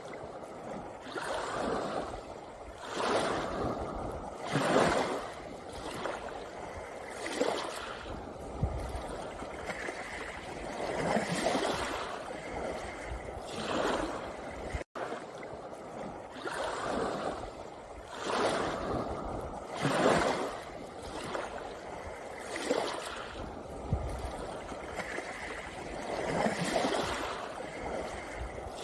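Small sea waves washing in on a pebble beach, with a surge of water every two to three seconds. The sound drops out for a split second about halfway through.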